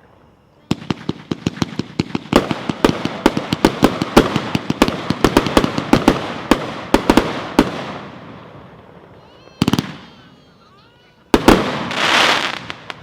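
38-shot "Shredder" consumer fireworks cake firing: a rapid string of sharp cracking reports, several a second, for about seven seconds, fading into crackle. Near the end two more single reports go off, the last followed by a short crackling hiss.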